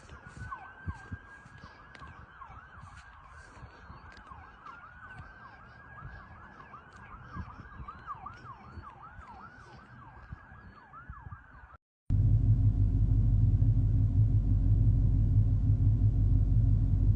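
Emergency vehicle sirens wailing and yelping, several overlapping sweeps at once. After a sudden cut about twelve seconds in, a much louder, steady low engine rumble.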